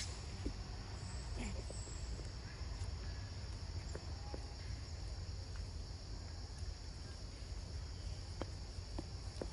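Steady high-pitched insect buzz of the forest, with a low rumble underneath and a few faint ticks.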